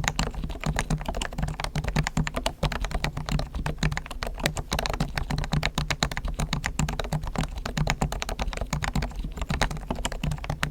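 Fast, continuous typing on a Realforce R1 Topre electro-capacitive keyboard whose springs, sliders and stabilisers have been lubed with Krytox and whose case is dampened. It gives a dense run of soft keystrokes at an even pace.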